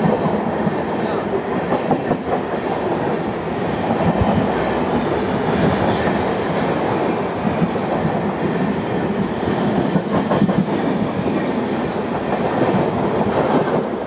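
Running noise of a blue ICF passenger coach moving along the track: a steady rumble and rattle of wheels on rails, with a few sharper clacks.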